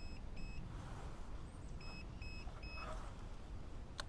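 TACK Life 600A portable jump starter beeping after its boost button is pressed: short high beeps in quick groups of three, about two seconds apart, signalling that it is feeding power to the battery.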